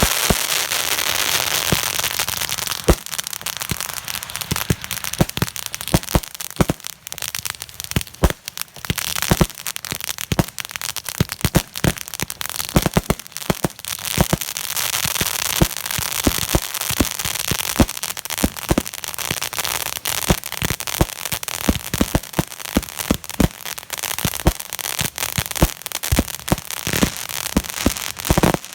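Fireworks crackling: a dense, irregular run of sharp cracks and pops over a steady hiss.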